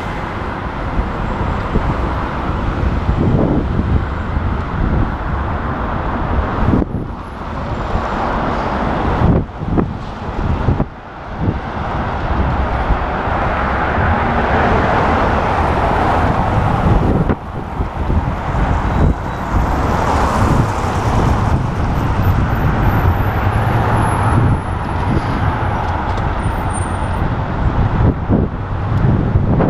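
City road traffic heard while riding a bicycle along a busy street, with wind rushing over the microphone. The noise is steady and dips briefly a few times.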